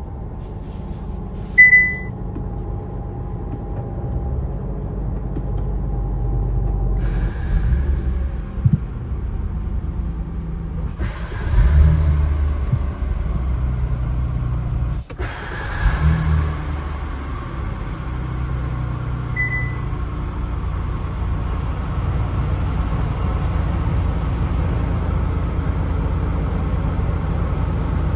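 Kia K8 engine running, heard from inside the cabin as a steady low rumble, with two brief louder swells partway through. A short electronic warning chime sounds about two seconds in and again, more faintly, near twenty seconds.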